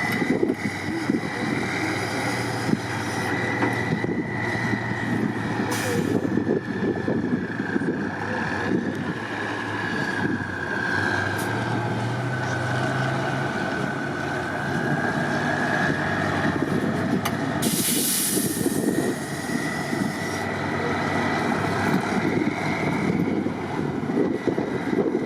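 Heavy trial truck's engine working and revving under load, with a steady whine that slowly falls and rises in pitch. There is a brief hiss about two-thirds of the way through.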